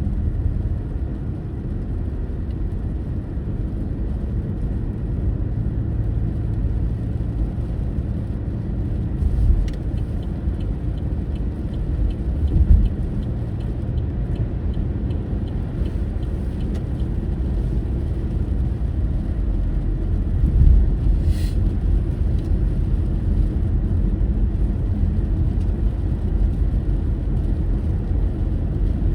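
Car driving, a steady low rumble of engine and road noise with a few brief louder bumps. A faint regular ticking, about two to three ticks a second, runs for several seconds near the middle, and a short sharp click comes about two-thirds of the way in.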